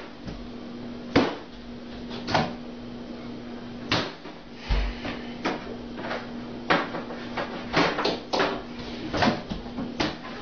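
A microwave oven hums steadily as it runs, though it is failing to heat the food. Over the hum come about a dozen sharp, irregular knocks and bangs, the loudest about a second in, like the microwave's door and cabinet being banged and slammed.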